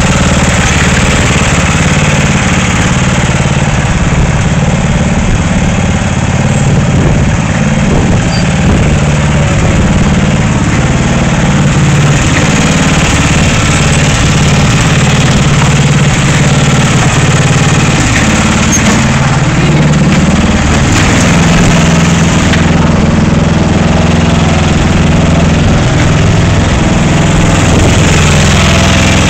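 Ride-on lawnmower engine running steadily and loud, its pitch wavering a little as it drives.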